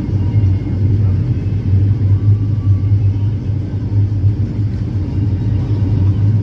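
Loud, steady low rumble that wavers in strength, with no clear rhythm or distinct events.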